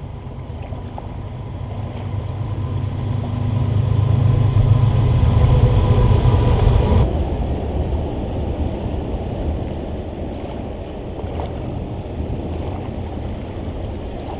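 Freight train crossing a railroad bridge overhead: a deep, steady rumble of wheels on rail that builds to its loudest about five seconds in, with a faint high ringing tone over it. About seven seconds in the sound changes abruptly, and the rumble carries on more evenly.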